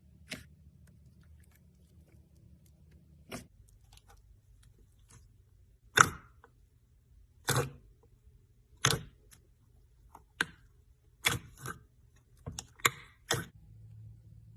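About eleven sharp clicks and taps at uneven intervals, the loudest about six seconds in, over a faint low hum.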